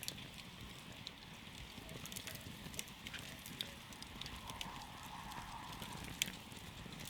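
Wood campfire burning, with irregular sharp crackles and pops over a steady soft rush of flame.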